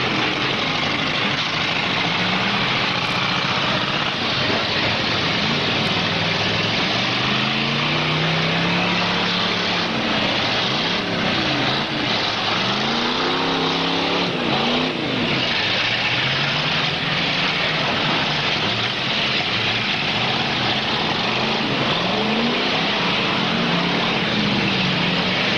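V8 engines of several demolition derby cars revving up and down over and over, their pitches rising and falling against one another, over a dense, steady wash of noise.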